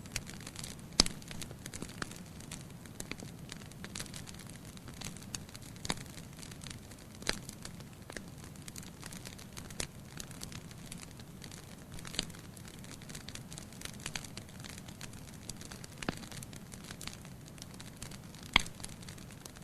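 Wood fire burning in a fireplace: a low steady rumble of flames with irregular sharp crackles and pops, two louder snaps about a second in and near the end.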